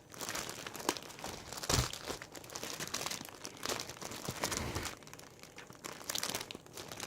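Gift packaging rustling and crinkling as it is handled and unwrapped by hand, with scattered small clicks and one soft knock about two seconds in.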